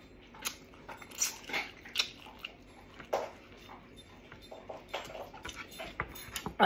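Close-miked eating sounds: wet chewing and lip smacks as meat is bitten and gnawed off a bone, in scattered soft clicks.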